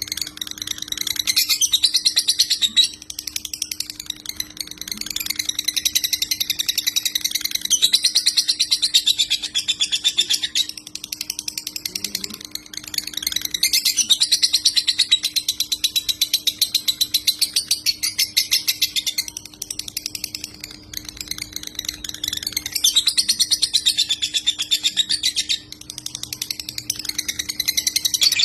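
Lovebird singing in long, very rapid buzzing trills of several seconds each with short breaks between them: the 'konslet' (short-circuit) song style that Indonesian keepers prize. A faint steady low hum runs underneath.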